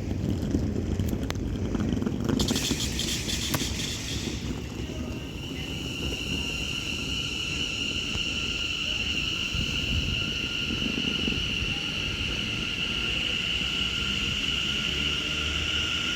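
Class 730 electric multiple unit at a station. A short hiss of air comes about two and a half seconds in, then a steady high electrical whine from the train's traction equipment runs over a low rumble.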